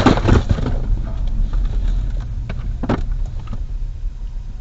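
Low rumbling noise of a car on the move, slowly fading, with a few sharp knocks, one about a third of a second in and another near three seconds.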